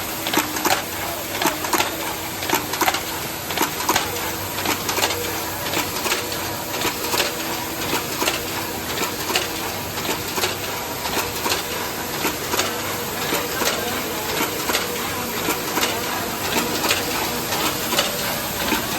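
Automatic can body welding machine running: rapid, irregular metallic clicks and clacks over a steady mechanical hiss.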